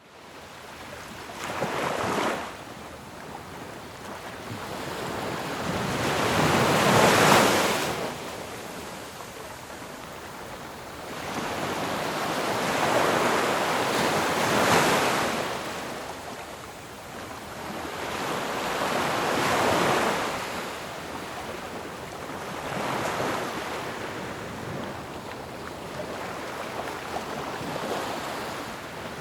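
Ocean waves breaking on a shore, one after another: each wave swells into a loud rush of surf and falls back to a steady hiss, roughly every five to seven seconds, the biggest about seven seconds in.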